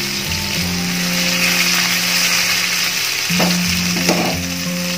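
Crushed garlic deep-frying in hot oil in a kadai: a steady, busy sizzle. Background music with held notes plays underneath.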